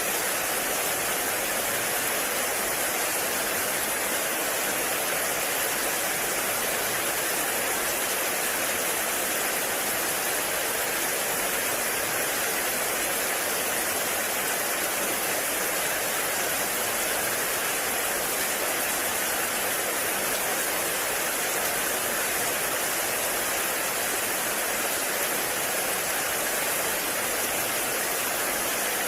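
Heavy rain falling in a forest: a steady, dense hiss with no breaks or distinct drops.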